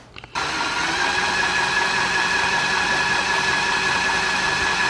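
Steady mechanical whine of constant pitch that starts abruptly and cuts off suddenly: the Honda EX1000 generator's small four-stroke engine being spun over for a spark check.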